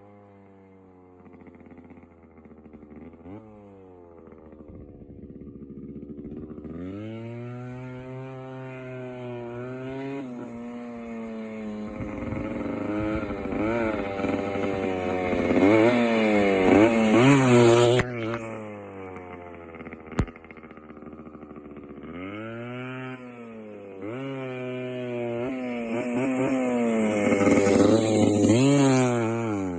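The two-stroke single-cylinder engine of a 1973 Kawasaki G4TR dirt bike revving up and down again and again. It grows louder to a peak about halfway through, drops off suddenly, then builds up again toward the end.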